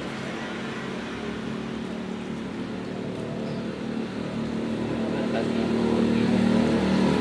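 A motor vehicle engine running steadily, growing gradually louder through the second half.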